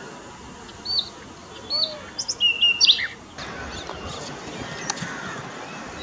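Small birds chirping: two short high rising notes about a second apart, then a louder quick run of calls about two seconds in, over a steady outdoor hiss.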